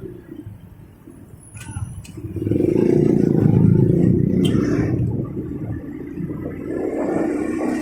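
Road traffic heard from a motorcycle in city traffic. It is fairly quiet at first, then a motor vehicle engine swells loud about two and a half seconds in, holds for a couple of seconds and eases back to a steady lower rumble.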